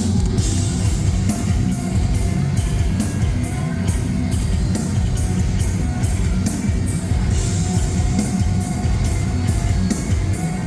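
Live metalcore band playing loud and heavy: distorted guitars, bass and drums, with a cymbal struck about three times a second over a dense low end.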